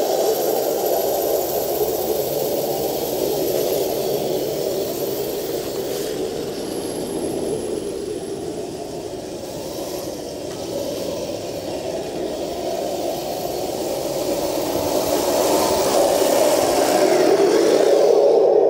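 Leopard RC tank's new electric motor and transmission whirring as it drives, easing off a little midway and growing louder again toward the end.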